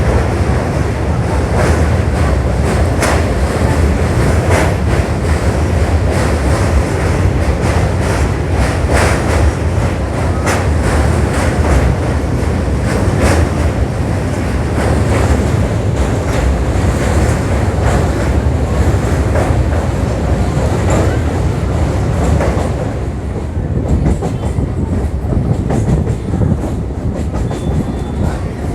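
Old EMU electric local train running, heard from on board the carriage. A steady low rumble carries repeated clicks as the wheels cross rail joints, and the higher clatter fades about three-quarters of the way through.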